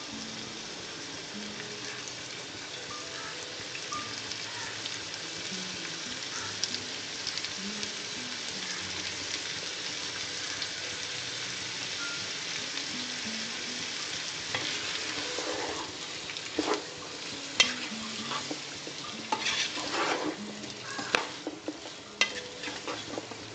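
Raw chicken pieces with shallots and onions sizzling steadily in a frying pan. From about halfway, a wooden spatula stirs through them, adding an irregular run of scrapes and clicks against the pan.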